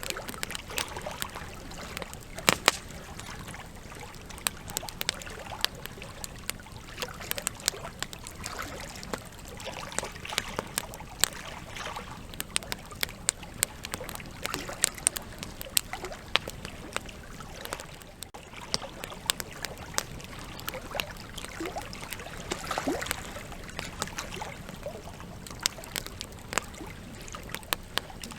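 Wood campfire burning, with frequent sharp crackles and pops over a steady rush of flame.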